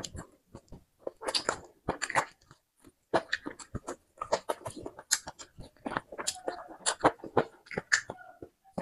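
Close-miked eating: a piece of meat is bitten and chewed, with an irregular run of wet mouth clicks, smacks and crunchy bites.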